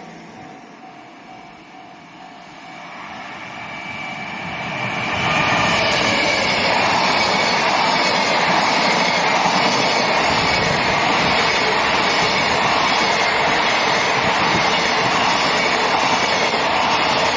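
Container freight train approaching, growing louder over about three seconds, then passing close by with a steady loud rumble of wheels on rails. A faint whine falls slightly in pitch as it nears.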